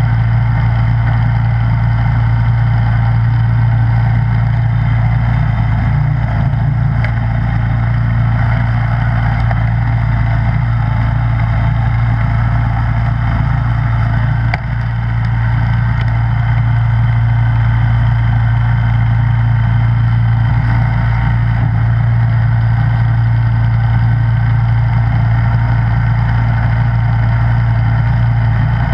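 Snowblower engine running steadily at a constant pitch, with a brief click and a momentary dip in level about halfway through.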